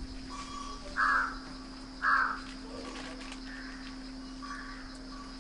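Two loud, harsh bird calls about a second apart, followed by two fainter ones.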